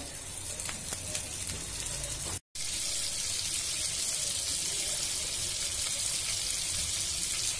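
Soya kababs shallow-frying in oil on a flat tawa, giving a steady sizzling hiss. After a short break of silence about two and a half seconds in, the sizzle is louder and brighter as four patties bubble in the oil.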